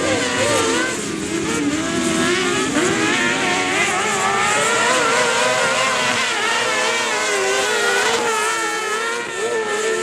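Several kart cross buggies' engines racing together, their pitch rising and falling repeatedly as they rev up and back off.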